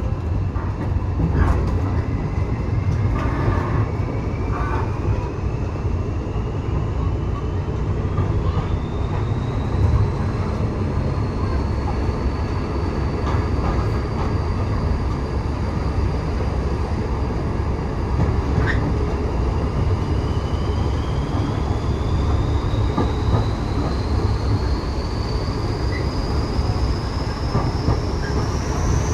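Railway passenger carriage running along the track: a steady low rumble with occasional small knocks. A thin high tone climbs slowly and steadily, joined by a second climbing tone about two-thirds of the way through.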